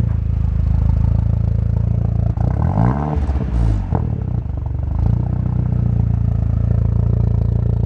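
Audi engine running steadily through its freshly welded exhaust, a low drone, with a short waver in pitch about three seconds in.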